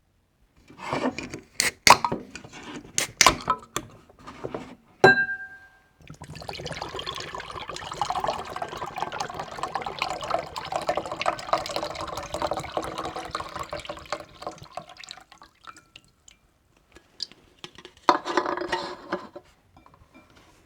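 Sikhye, sweet rice drink, poured into a glass for about nine seconds, with a running, trickling sound. Before it come several sharp clicks and knocks of the drink and glass being handled, ending in a short ringing clink, and a short burst of sound comes near the end.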